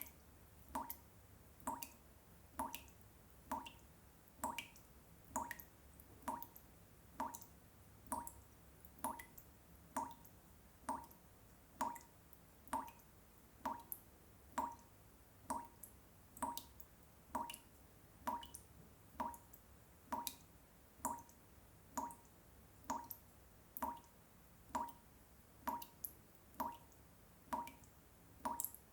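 Water dripping in a steady, even rhythm, a little over one drop a second, each drop a short plink with a clear pitch.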